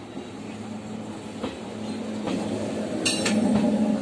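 Indian Railways passenger coaches rolling past, their wheels clacking over rail joints about once a second. The rumble grows louder toward the end, with a sharp click about three seconds in.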